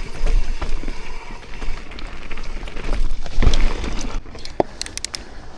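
Mountain bike riding down a rough, muddy trail: tyres rolling over dirt and roots with rattling and knocks from the bike, over a steady low rumble. A heavy jolt comes about three and a half seconds in, and a few sharp clicks follow shortly after.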